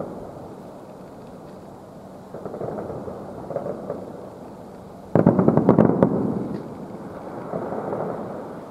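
Distant aerial firework shells bursting as dull, rumbling booms. The loudest is a sudden bang about five seconds in that rolls on for about a second, with softer booms before and after it.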